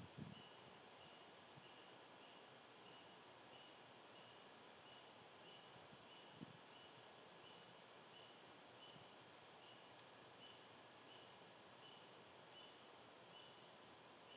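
A cricket chirping faintly in a slow, regular rhythm of short high chirps, about one and a half a second, over a low hiss. Two soft low thumps come near the start and about six seconds in.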